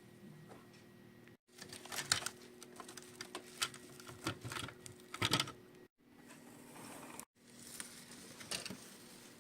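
Irregular light clicks and clatter of small diecast-and-plastic toy farm models being handled, over a faint steady hum. The sound drops out abruptly three times.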